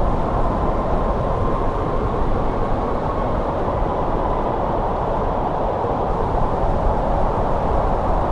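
Steady snowstorm wind blowing: an even, low rushing noise with a faint whistle in the first few seconds.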